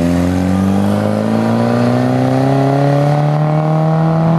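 A classic Mini's four-cylinder engine accelerating away in one gear, its revs climbing steadily.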